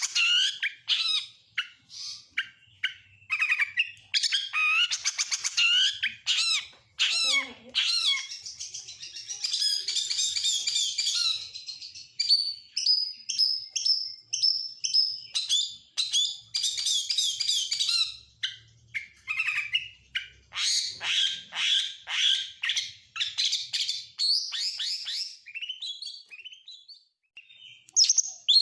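Oriental magpie-robin (kacer) singing a long, varied song of quick chirps, whistled notes and rapid trills, with phrases mimicked from lovebird, canary and prinia worked in.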